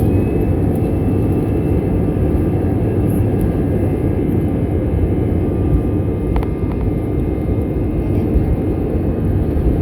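Airbus A320's jet engines spooled up to takeoff power, heard from inside the cabin: a loud steady rumble under a high fan whine that climbs just before and then holds at one pitch. A brief click about six seconds in.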